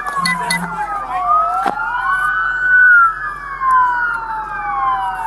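Several police car sirens wailing at once, their rising and falling pitches crossing over each other, with one sharp knock about a second and a half in.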